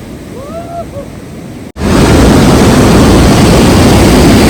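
A short vocal exclamation, then, after an abrupt cut about two seconds in, a loud steady rushing roar.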